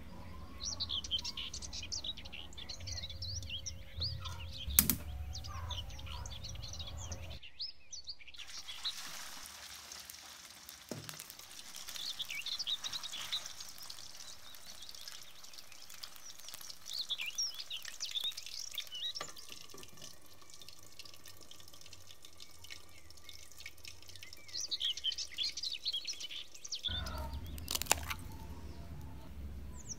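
Small birds chirping on and off throughout, over a low hum. Near the end there is a sharp crack as an egg is broken on a glass bowl.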